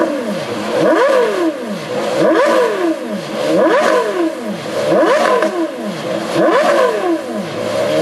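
Porsche Carrera GT's 5.7-litre V10 revved repeatedly while standing still: quick throttle blips about every second and a half, each pitch climbing sharply and falling back toward idle.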